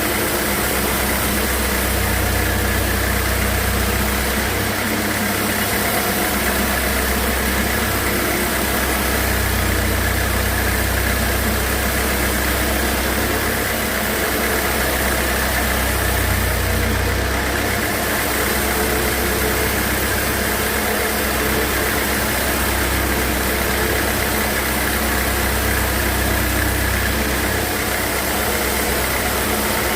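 Sawmill machinery running steadily: a motor's even drone with a constant mechanical noise and a low throb that swells and fades every few seconds.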